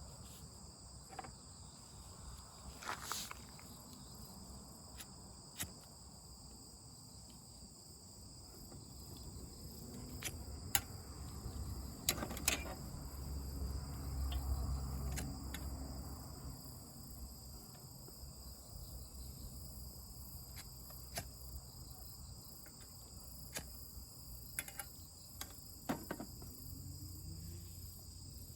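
Steady high-pitched trilling of a chorus of night insects, with scattered sharp clicks and knocks, the loudest about halfway through, and a low rumble that swells for a few seconds just after the middle.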